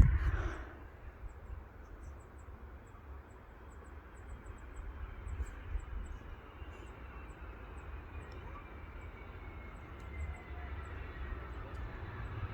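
Distant jet airliner's engines: a faint whine slowly falling in pitch and getting louder near the end, over a low, uneven rumble from wind on the microphone.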